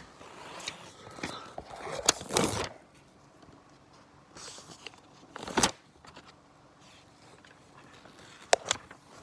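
Scattered handling noises: a few sharp knocks and short rustling bursts, the loudest about two seconds in and again past five seconds, with quiet room tone between them.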